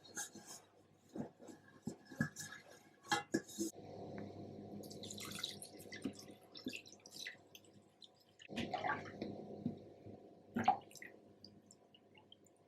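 Kitchen handling sounds: scattered light clicks and knocks of utensils and dishes, with water running or dripping for a few seconds in the middle, over a faint steady hum.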